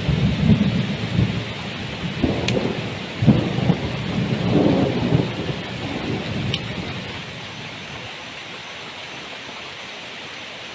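Heavy tropical rain falling steadily, with a low rolling rumble of thunder that dies away about seven seconds in.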